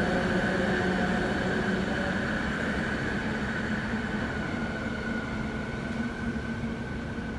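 Rapid KL light-metro train pulling away along the track, with a steady high motor whine over its running noise, slowly fading as it recedes.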